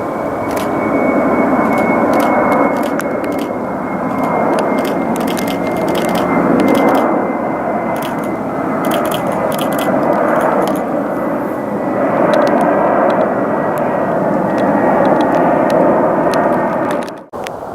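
Jet engines of a four-engined airliner at takeoff power: a loud, steady roar with a thin high whine slowly falling in pitch and sharp crackling throughout. The sound breaks off abruptly near the end.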